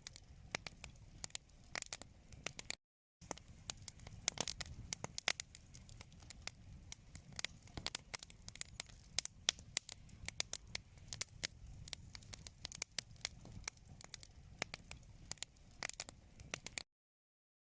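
Wood fire crackling in a fireplace: dense, irregular pops and snaps over a low rumble of the flames. The sound drops out briefly about three seconds in and cuts off suddenly near the end.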